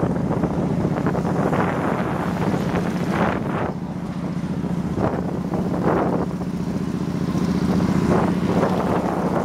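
Wind buffeting the microphone on a moving motorbike, in gusts, over the steady low hum of the bike's engine.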